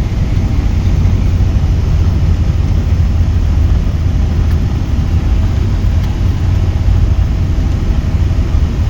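Steady low rumble of an airliner heard from inside the cabin: engine and airflow noise during the landing.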